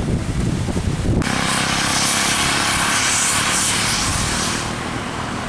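A heavy diesel truck passing close, its engine running under loud tyre and air noise that starts abruptly about a second in and eases near the end. Wind buffets the microphone at the start.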